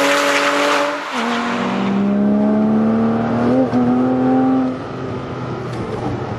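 Porsche 987 Cayman S flat-six running at high revs through an A.W.E. Tuning stainless cat-back exhaust. The pitch drops about a second in, as at a gear change, then climbs steadily again before the engine eases off and quietens near the end.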